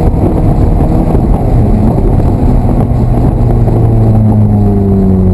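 Ferrari F430's V8 engine running hard on track, heard from inside the cabin, its pitch shifting and easing slowly downward over the last couple of seconds.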